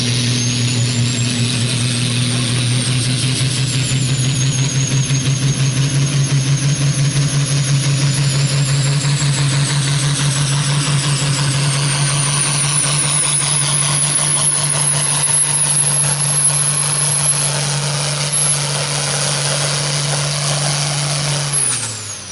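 Farm-stock diesel pulling tractor under full load dragging a sled, with a steady engine drone and a high turbocharger whistle that wavers and then climbs. Near the end the engine throttles down and the whistle glides away.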